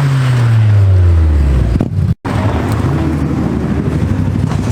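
Car engine, its pitch falling steadily over about two seconds, as when a car drives past or the revs drop. After an abrupt cut, engines run on steadily, with a short rise in revs.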